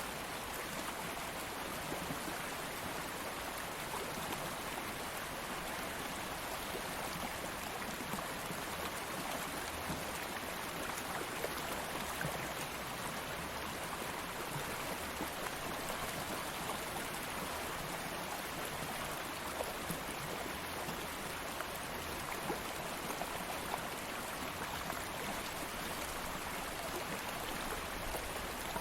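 Stream water flowing steadily, a continuous rushing with small splashes and trickles throughout.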